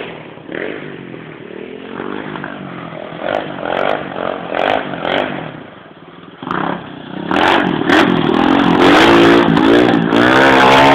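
Pit bike engine revving, its pitch rising and falling, getting louder in the second half as the bike is ridden hard.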